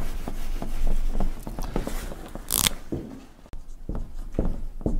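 Marker writing on a whiteboard: a run of short, quick scratching strokes, with one louder, hissing stroke about two and a half seconds in.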